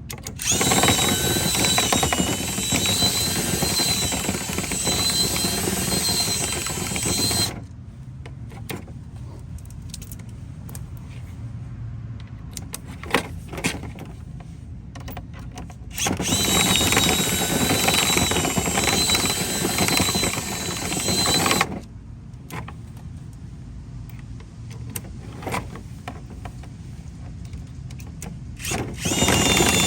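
An electric motor with a high steady whine runs in two long bursts of about seven and six seconds and starts again near the end. Between the runs there are quieter clicks and rattles.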